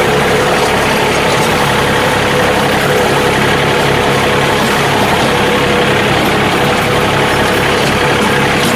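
John Deere 3036 compact tractor's three-cylinder diesel engine running steadily at a constant pitch, with a steady mechanical whine over it.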